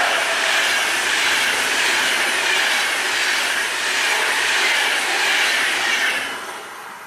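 A train passing close by at speed, its wheels running on the rails in a loud continuous rush that drops away about six seconds in as the train clears.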